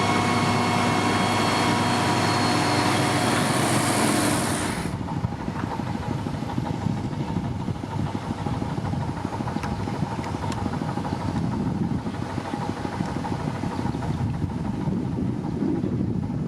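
Heavy construction machine's diesel engine running steadily. About five seconds in the sound changes abruptly to a quieter, rougher engine sound with a few faint clicks.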